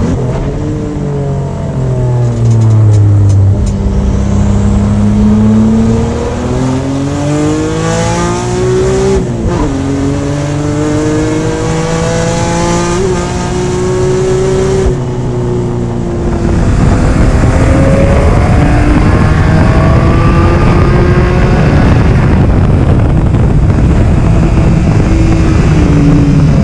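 Nissan S13 drift car's turbocharged engine being driven hard on track, its pitch repeatedly climbing and dropping with throttle and gear changes. About 16 seconds in it becomes louder and rougher, with a rushing noise under the engine note.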